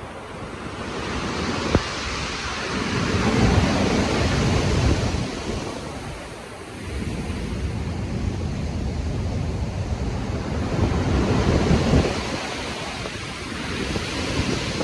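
Stormy sea: ocean waves surging and breaking in slow, heavy swells, with wind. One swell peaks about three to five seconds in, and a longer one runs from about seven to twelve seconds.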